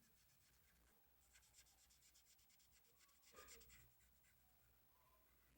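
Faint scratching of a Faber-Castell felt-tip pen colouring on paper in quick, repeated back-and-forth strokes, with a slightly louder rub a little past halfway.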